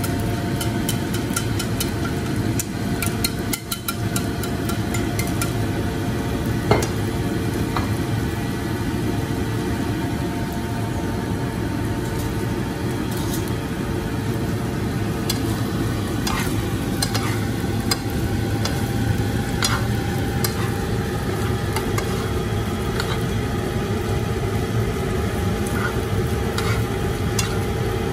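Shredded snakehead fish gills frying in a skillet as they are cooked down into fish floss (chà bông), stirred and tossed with chopsticks and a fork, the utensils clicking against the pan now and then over a steady hum.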